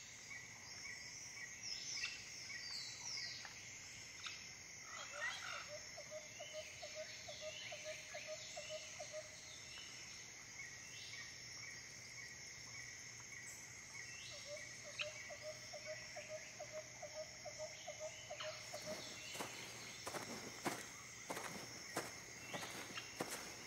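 Night ambience of a steady insect chorus, with short falling chirps scattered through it. A frog's rapid rattling trill comes in twice, for about four seconds each time. In the last few seconds irregular clicks and taps join in.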